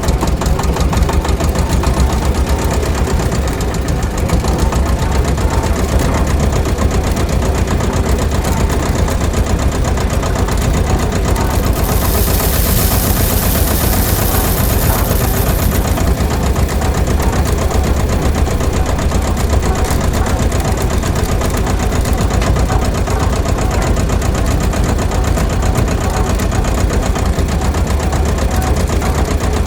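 Small motor of a homemade model rice-mill machine running steadily with a fast, even rattle. A hiss joins in about twelve seconds in and lasts about four seconds.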